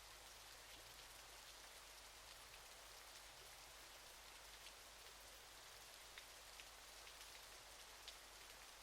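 Faint steady hiss of falling water from a waterfall, with scattered small drips and splashes ticking through it.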